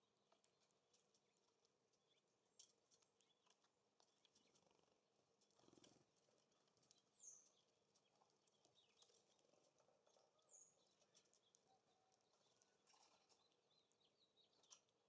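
Faint sounds of small songbirds at a feeder: scattered soft ticks and taps, with two brief high chirps falling in pitch, one about seven seconds in and one about ten seconds in.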